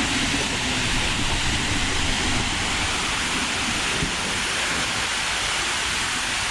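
Steady rush of falling, splashing water, without a break.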